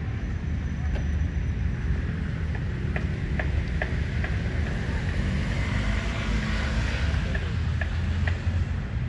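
Motor vehicle rumble with wind buffeting the microphone, and a few faint clicks scattered through the middle.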